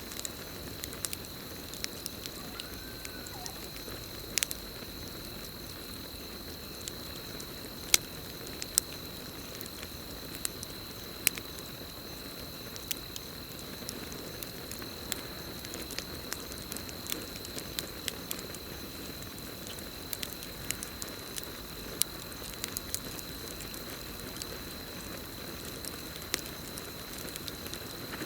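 Campfire burning, with irregular crackles and sharp pops over a low steady rush of flame. Crickets trill steadily in the background as one unbroken high tone.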